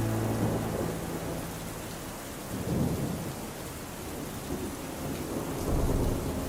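Steady rain with low rolls of thunder, one swelling about two and a half seconds in and another near the end. The last tones of a song fade out in the first second.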